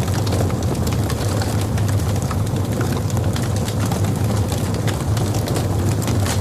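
Logs burning in a fireplace: a steady low roar of the flames with frequent small crackles and pops from the wood, one sharper pop near the end.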